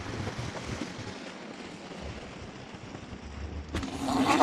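Wind rushing over the microphone on a moving electric scooter. Near the end a sudden louder burst: the hub motor whines as the wheel spins on snow and slush.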